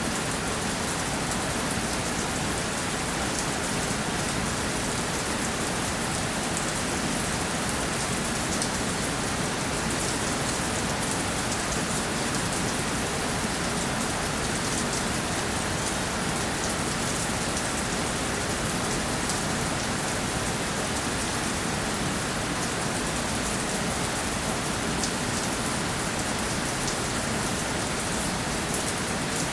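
Steady rainfall pattering on a surface, an even hiss with fine drop ticks and no change in intensity.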